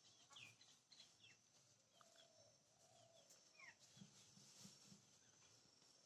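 Faint bird calls: scattered short downward chirps and, about two seconds in, a brief low wavering call.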